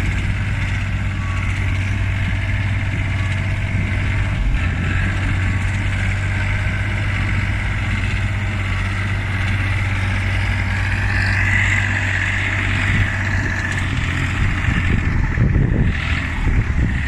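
Mini site dumper's Yanmar diesel engine running steadily. A higher whine swells about two-thirds of the way through, and the engine note turns uneven near the end.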